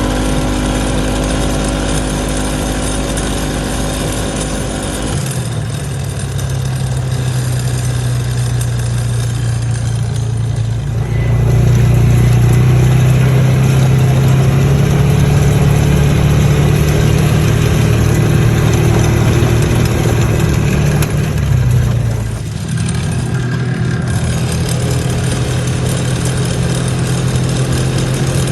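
2011 Polaris Ranger Crew side-by-side driving at high speed, its engine running steadily with a rattle that the owner cannot yet trace. The engine gets louder through the middle and eases off briefly about two-thirds of the way through.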